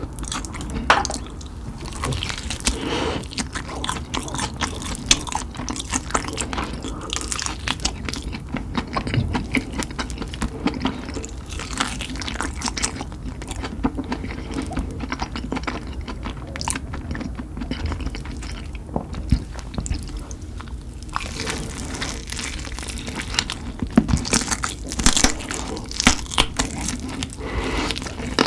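A person eating spicy chicken, biting and chewing with many irregular crunches.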